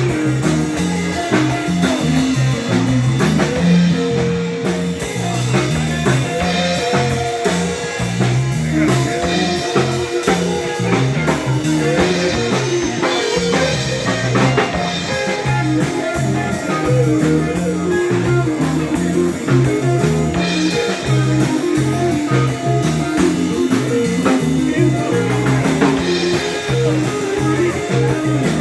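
Live rock band jamming instrumentally: electric guitar over bass and a drum kit, steady and loud.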